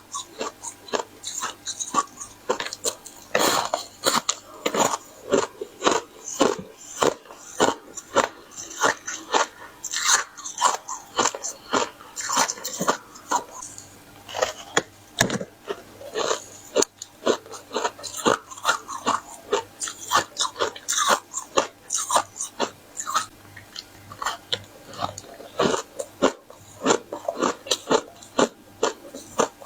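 Close-miked crunchy biting and chewing of a crisp tartary buckwheat ice-crisp flatbread, a continuous run of sharp crunches several times a second.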